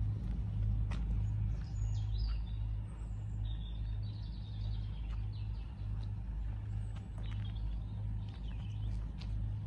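Small birds chirping and twittering in short high calls, clearest from about two to six seconds in and again near the end, over a constant low rumble.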